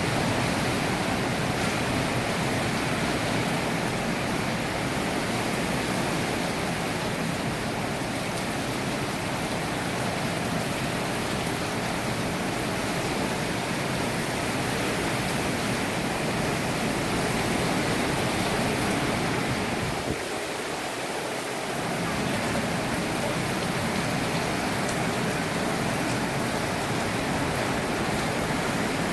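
Hurricane wind and rain: a steady, dense rushing noise, easing slightly for a moment about twenty seconds in.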